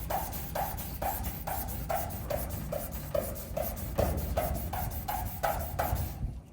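Steady back-and-forth hand rubbing on the painted sheet-metal side of a 1956 Fargo panel truck, about two and a half strokes a second, wearing away the top coat of paint. The strokes stop near the end.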